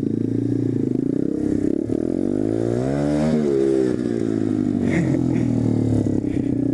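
Motorcycle engines running while riding: the SSR125 pit bike's single-cylinder four-stroke engine, with engine pitch sweeping up and down around the middle as the revs change.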